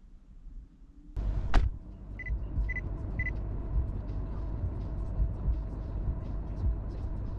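A car starting to drive: a sudden thud about a second in, then three short high beeps, then the steady low rumble of engine and tyres with uneven bumps.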